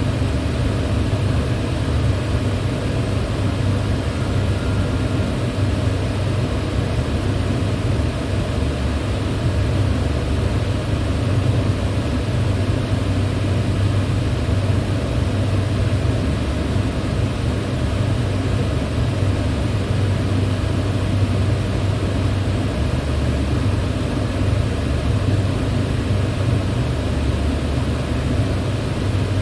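Electric fan running steadily: a low motor hum under an even whoosh of moving air, unchanging throughout.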